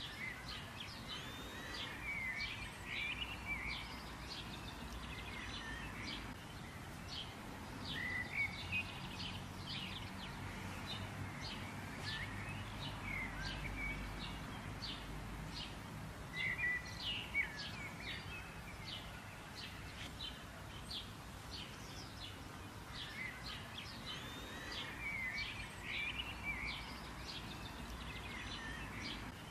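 Small birds chirping, many short sharp calls repeated quickly, with now and then a short warbled phrase, over a steady outdoor background hiss.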